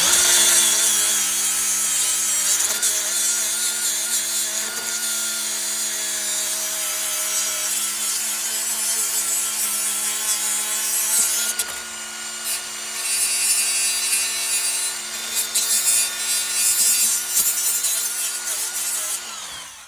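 Electric grinder running steadily while grinding metal, the harsh rasp of the cut swelling and easing as it is pressed in. The motor spins down and stops near the end.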